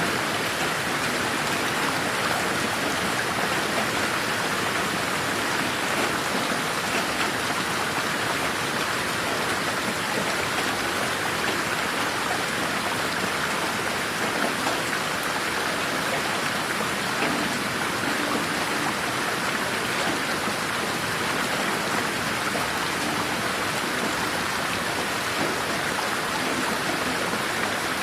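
Steady rain falling on a garden: a dense, even patter of drops with no thunder, mixed with the slowly circling stereo '8D' effect meant for headphones.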